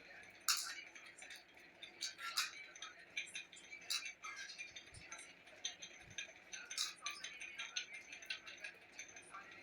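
Eating at a plate: scattered small clicks and clinks of food being handled, irregular and a few a second, over a faint steady background hum.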